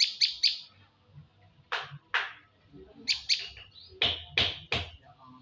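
Prenjak lumut singing busily: quick runs of three or four short high chirps, broken by a pair of sharper calls about two seconds in and three loud sharp notes about four seconds in.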